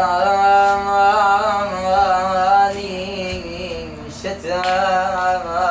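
A solo man's voice singing long, held, wordless notes with a wavering ornamented line, in Iraqi folk style. One long note runs for about the first three seconds. After a short pause, a second held phrase starts about four seconds in.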